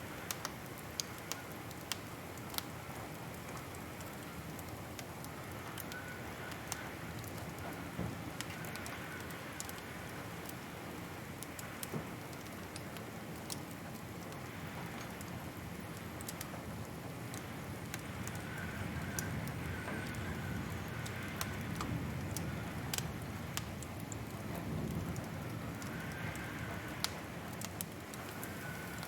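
Wood fire crackling: scattered sharp pops and snaps over a steady soft hiss and low rumble of the flames.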